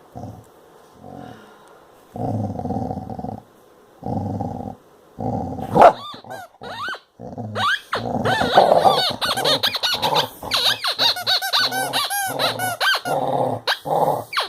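A dog growling in short low rumbles, then from about six seconds in a rubber squeaky toy squeaking rapidly and over and over in the dog's grip, with the growling carrying on beneath it.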